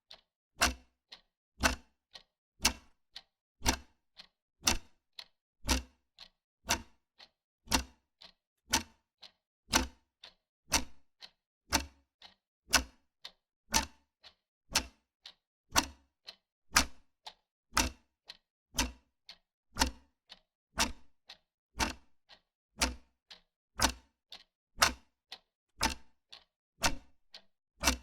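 Mechanical wall clock ticking steadily, a sharp tick-tock at about two ticks a second, alternating louder and softer.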